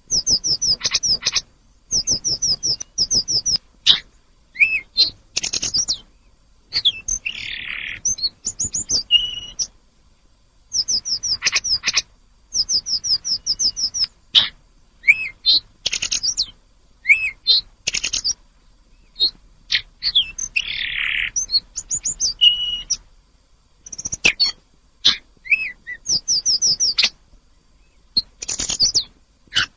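Tledekan gunung songbird singing in bursts of rapid, high, repeated down-slurred notes, each phrase about a second long with short pauses between, and a few harsh rasping notes mixed in.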